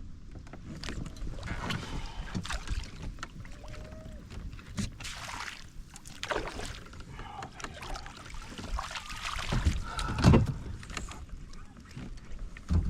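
Water sloshing and splashing around a fishing kayak, with irregular knocks and clicks of gear handled on the hull, and a heavier thump about ten seconds in.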